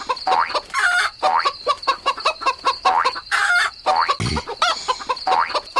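Chickens clucking: a busy run of short, repeated clucks with sharp clicks between them.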